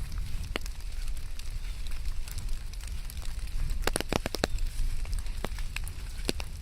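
Rain ambience: a steady hiss over a low rumble, with scattered sharp drop taps and a quick run of taps about four seconds in.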